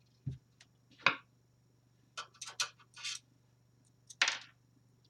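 Irregular sharp clicks, knocks and scrapes of a hard drive and metal computer-case parts being handled and worked into a drive bay, with a short clatter in the middle.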